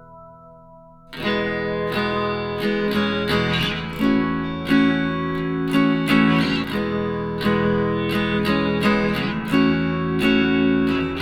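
Acoustic guitar music: after a fading chord, strumming starts about a second in and goes on in a steady rhythm.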